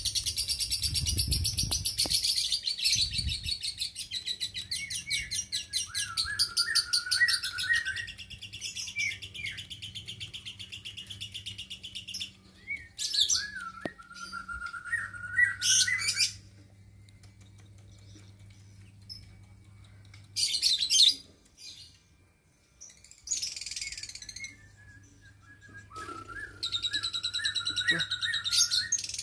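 Lovebird chattering in long, rapid, high-pitched trills, in several bouts: one long stretch for the first twelve seconds, then shorter bursts with quiet gaps between.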